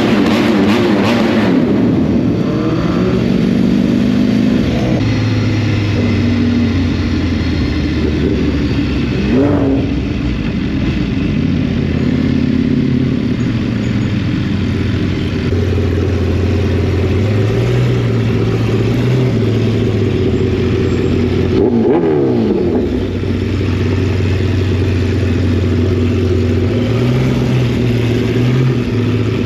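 High-performance vehicle engines running on the road, their pitch stepping up and down with the throttle and gear changes. Twice, about ten seconds in and again past twenty seconds, a sweeping change in pitch suggests a vehicle passing close by.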